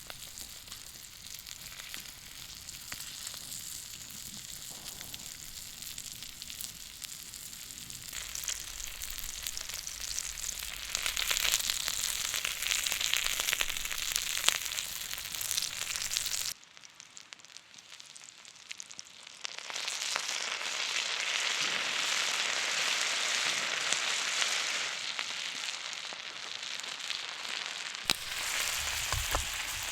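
Food sizzling as it fries in a hot pan, a steady hiss that swells and fades, dropping away suddenly about halfway through and building back up a few seconds later.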